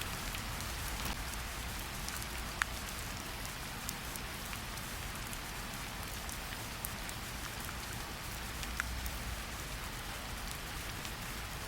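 Steady rain falling in a forest, an even hiss with scattered drips and a couple of sharper drop ticks.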